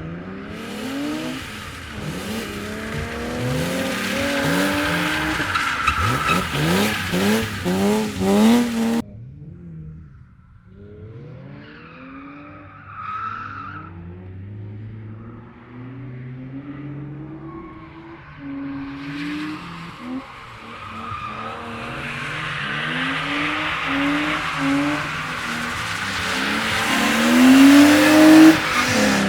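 Drift cars sliding past: engines revving up and down hard with tyres squealing. About nine seconds in the sound cuts off abruptly to a quieter pass, which grows louder until a loud revving, squealing slide near the end.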